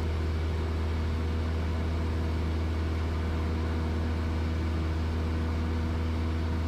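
Steady drone of a Cessna 172S Skyhawk's four-cylinder Lycoming engine and propeller in flight, heard as a low, even hum with a few steady tones above it.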